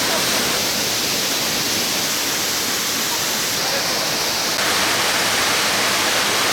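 Steady rushing of water in a mountain stream or small waterfall, an even hiss with no distinct splashes, shifting abruptly in level a couple of times.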